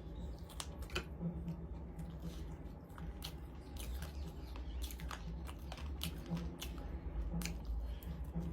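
A person chewing and biting food close to the microphone: irregular clicks and crunches, several a second, over a steady low hum.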